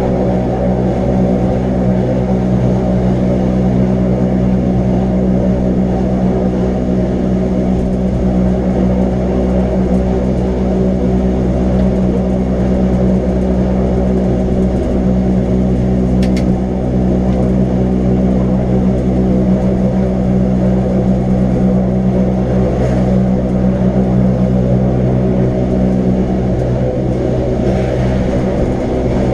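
Wengernalpbahn electric rack-railway train running at a steady pace: a constant droning hum from its drive over a low rumble, with a brief tick about halfway.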